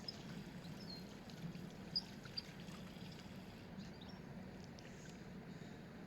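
Faint waterside outdoor ambience: a steady low hum under a soft haze, with a few short, high chirps and a single sharp click about two seconds in.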